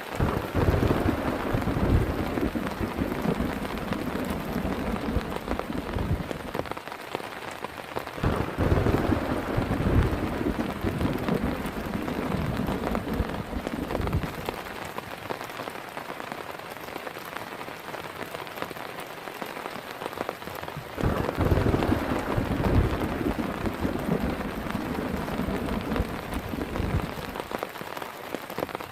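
Heavy rain falling steadily, with thunder rumbling in three long rolls: one at the start, one about eight seconds in, and one about twenty-one seconds in.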